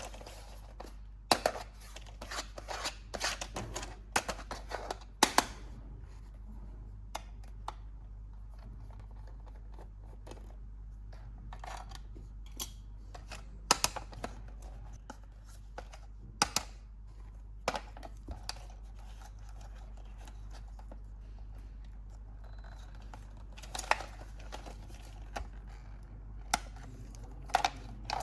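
Toy packaging being handled and cut open during an unboxing: scattered sharp clicks, snips and crinkles. They come thick in the first few seconds, then as occasional single clicks.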